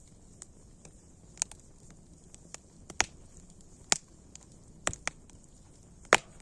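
Wood fire crackling: irregular sharp snaps and pops over a faint hiss, with several louder pops in the second half.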